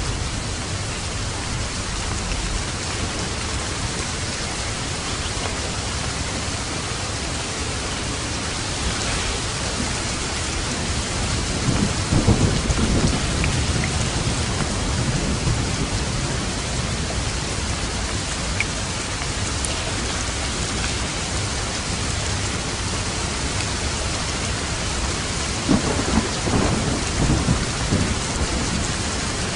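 Steady rain falling as an even hiss, with low rolls of thunder swelling up about twelve seconds in and again near the end.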